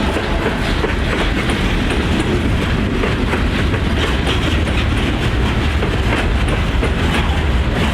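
Freight train cars rolling past close by: a steady rumble with the wheels clicking over the rail joints.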